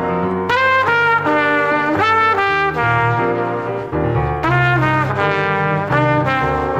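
Salsa music with a brass section of trumpets and trombones playing a melody of held and moving notes over a bass line.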